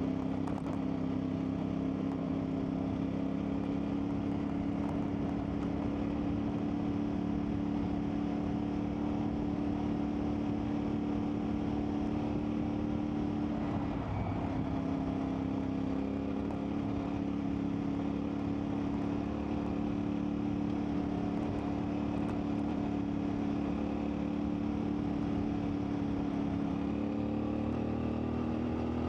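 CFMoto 450MT parallel-twin motorcycle engine running at steady revs while riding, with a brief drop in revs about halfway through and a slight rise in revs near the end.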